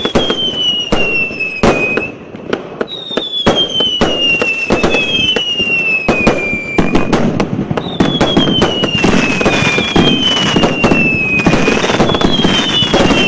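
Fireworks display: whistling effects, each a falling whistle of about two seconds, set off one after another every few seconds, among many sharp bangs. The crackling grows denser from about eight seconds in, with whistles overlapping near the end.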